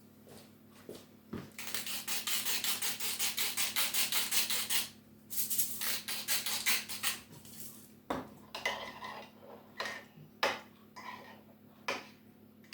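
Salt mill grinding: two runs of fast, even grating, the first about three seconds long, then a short pause and a shorter second run. A few knocks and clinks of kitchenware follow.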